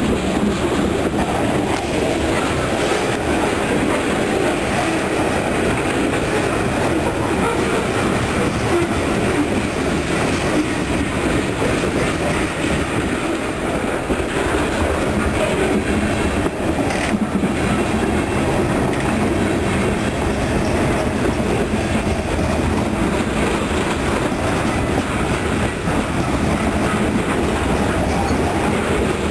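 Train of loaded coal hopper cars rolling past, a steady rumble of steel wheels on rail with a clickety-clack over the rail joints.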